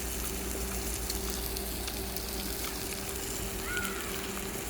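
Pork belly sizzling steadily as it fries in its own fat.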